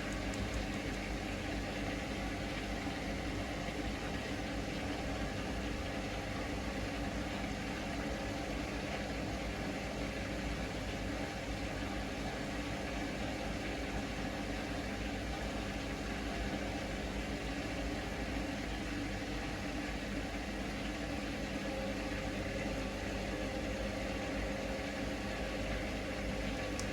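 Hoover Link washing machine in its intermediate spin: the drum has balanced and is spinning steadily, with an even motor hum made of several constant tones.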